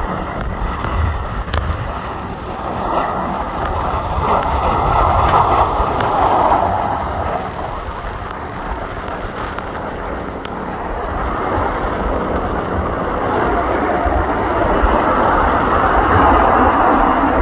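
Jet2 airliner's jet engines on arrival, a loud rushing noise that swells around five seconds in, eases, then builds again and stays up near the end, with wind buffeting the microphone.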